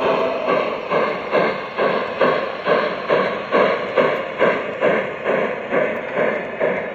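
Steam locomotive working along with its exhaust chuffing in a steady, even beat of about two chuffs a second.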